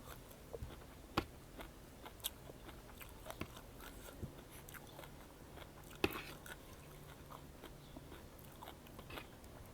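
Faint close-up chewing and mouth sounds of someone eating seafood papaya salad, with scattered small clicks and crunches.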